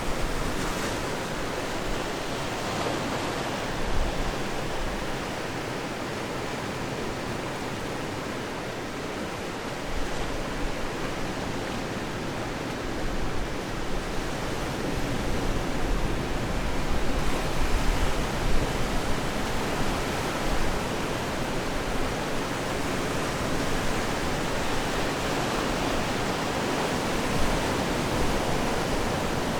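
Atlantic surf washing onto the shore in a continuous rushing wash of waves, swelling a little louder about halfway through.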